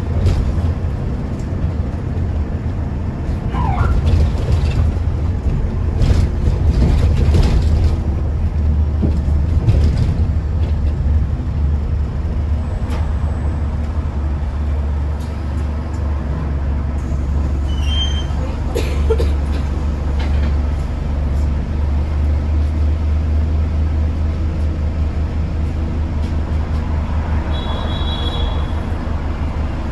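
A London bus running, heard from inside the saloon: a steady low engine drone with scattered rattles and knocks from the body, and a few brief high squeals.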